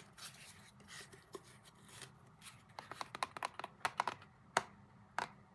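Irregular sharp clicking taps, sparse and faint at first, then quicker and louder from about halfway, like fingers tapping keys or a hard surface.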